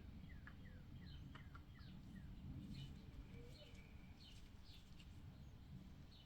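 Near silence with a low hum and faint, scattered bird chirps in the background.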